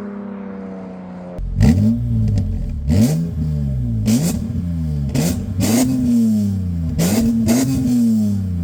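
BMW E46 M3's S54 straight-six through a Valvetronic Designs valved exhaust. A steady engine note sags slightly in pitch, then about a second and a half in the engine is revved in a run of quick throttle blips, about one a second. Each blip rises sharply in pitch and falls back, and several open with a sharp crack.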